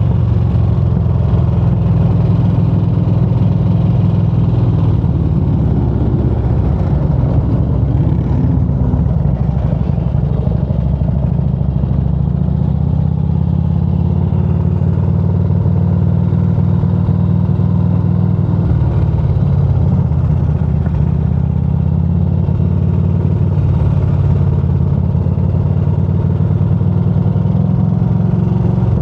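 Motorcycle engine running steadily under way, its low drone holding level throughout with a slight change in pitch about two-thirds of the way through.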